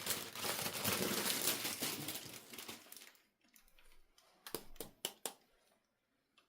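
Plastic toy packaging crinkling and rustling as it is handled, for about three seconds, then a few sharp clicks a little past the middle.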